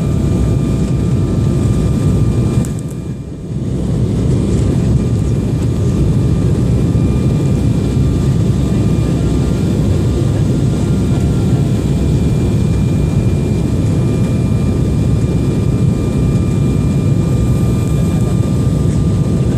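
Airliner on its landing approach: a steady, loud engine and airflow rumble with several steady whining tones on top, briefly dropping in loudness about three seconds in.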